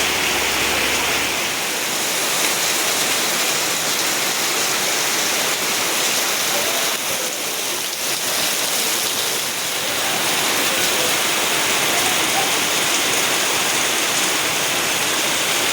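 Steady rain falling, a dense, even hiss of water that dips slightly about halfway through.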